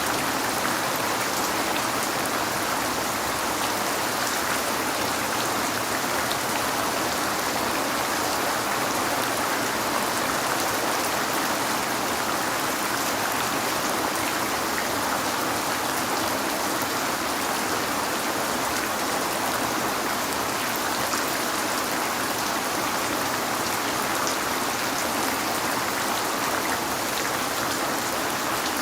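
Steady rain falling on a window: an even hiss with faint scattered taps of individual drops.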